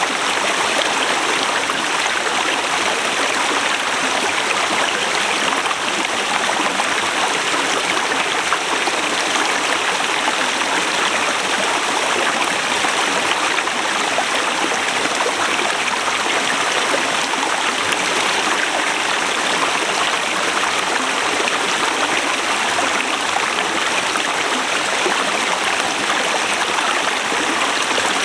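Forest river rushing and splashing over rocks: a steady, unbroken water noise.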